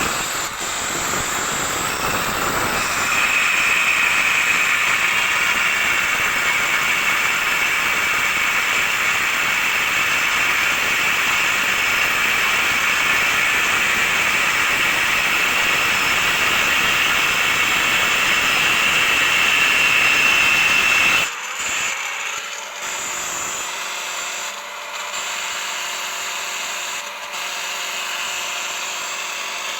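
Handheld angle grinder running with a steady high whine, cutting off sharply about twenty seconds in, after which a quieter steady hum remains.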